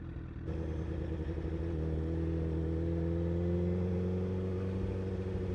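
Honda CBR1000RR's inline-four engine running at low revs, stepping up in loudness about half a second in, its pitch rising gently and then easing off.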